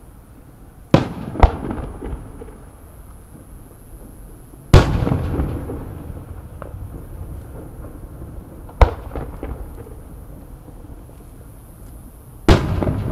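Aerial firework shells bursting: five sharp bangs, two in quick succession about a second in, then single ones about five, nine and twelve seconds in, each dying away in a rolling rumble.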